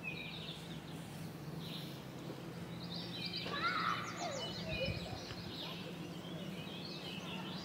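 Birds singing and chirping in the trees: short high warbling phrases, busiest from about three seconds in, over a steady low hum.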